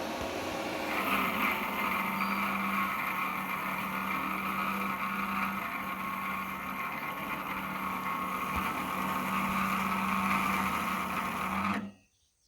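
Electric fan running steadily, making a strange noise: a constant hum over a rough, rushing hiss. It cuts off suddenly near the end.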